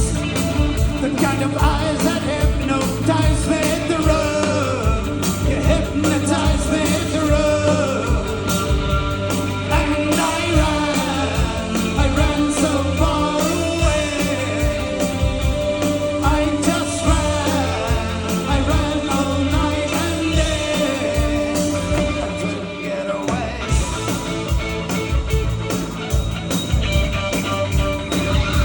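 Live rock band playing with a singer over a steady drum beat, heard as a loud concert mix.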